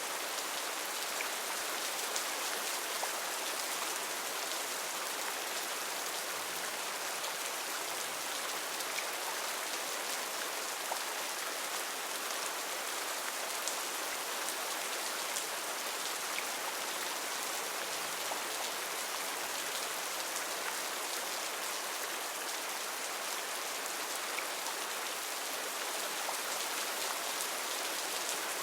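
Heavy rain falling steadily on rainforest foliage: a dense, even hiss with scattered individual drops ticking through it.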